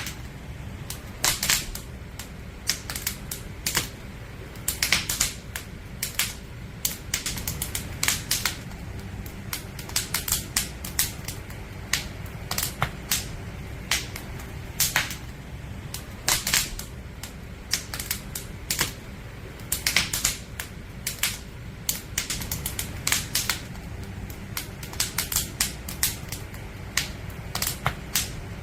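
Campfire of split firewood crackling, with irregular sharp pops and snaps several times a second over a low, steady rumble of the flames.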